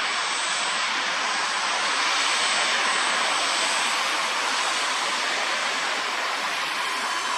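Learjet C-21A's twin turbofan engines running: a steady rush of jet noise with a faint high whine.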